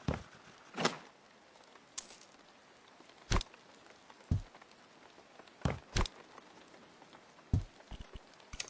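A string of sharp knocks, clicks and clinks at uneven intervals, about ten in all, with a quick cluster near the end: objects being handled and set down during hands-on work.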